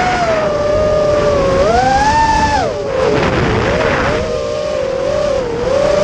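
A small, high-revving engine running and changing speed: its pitch climbs and falls repeatedly, drops sharply almost halfway through with a noisy stretch after it, then rises again near the end.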